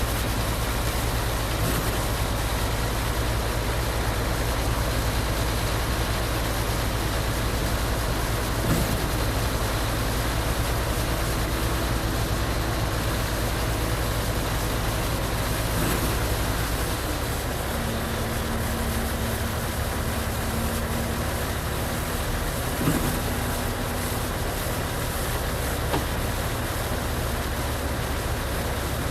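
Concrete pump truck's diesel engine and pump running steadily, a constant low drone under a broad rushing noise. The low drone shifts a little past halfway through.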